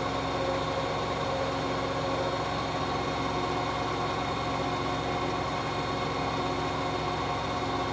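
Hoover H-Wash 600 integrated washing machine on a spin-and-drain cycle, its drum spinning at a constant speed: a steady mechanical hum of several held tones over an even whoosh, with no rise or fall.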